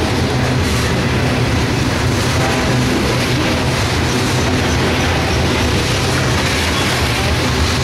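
Empty covered hopper cars of a freight train rolling past at an easy pace: steel wheels on the rail making a steady, continuous rolling noise with a strong low rumble.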